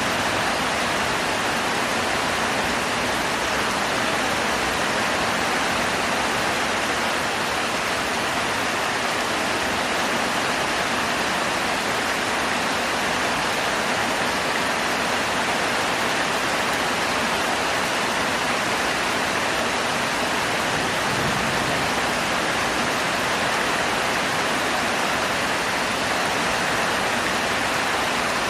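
Heavy rain pouring down, a steady dense hiss with no change in strength.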